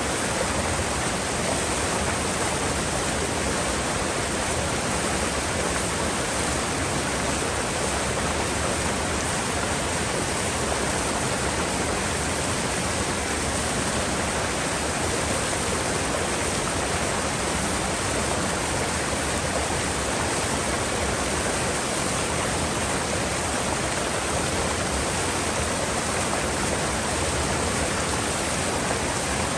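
Mountain river water running steadily, an even, unbroken rush of flowing water.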